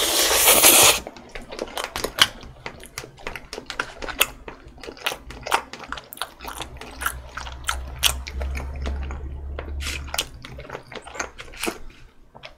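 A forkful of cheese spaghetti slurped into the mouth in a loud rush lasting about a second, then wet chewing with many irregular smacks and clicks.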